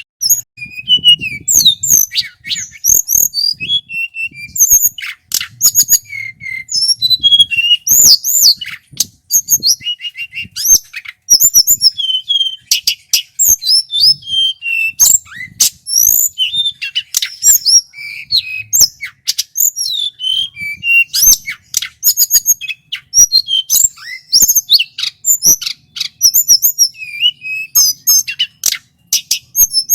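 Male tledekan gunung singing continuously: a loud, clear, fast run of varied chirps, whistled notes and sharp clicks.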